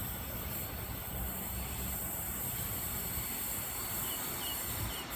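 Oscar H-set intercity electric train approaching in the distance, a steady low rumble.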